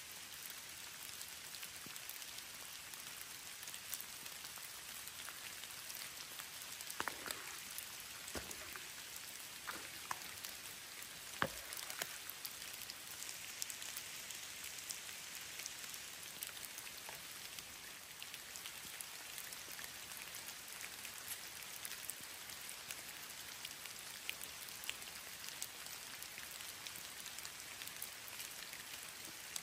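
Steady rain falling, a continuous hiss of pattering drops, with a few louder individual drops between about 7 and 12 seconds in.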